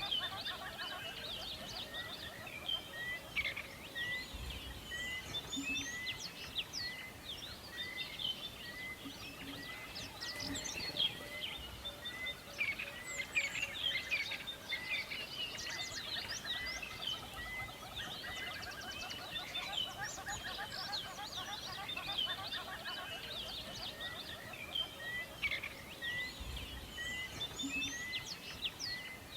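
A forest chorus of many songbirds chirping and trilling over one another. Through it runs one short note repeated steadily, about every two-thirds of a second.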